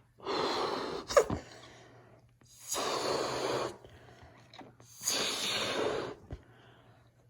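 A balloon being blown up by mouth: long puffs of breath into it, about a second each and repeating every two seconds or so, with a short sharp sound about a second in.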